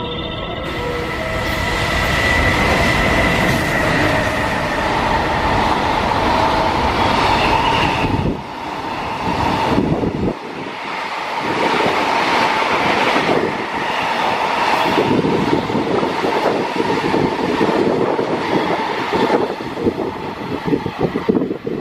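Freight train running past: a loud, continuous rush of wheels on rail with a steady whine, and wheels clattering over the rail joints in the second half.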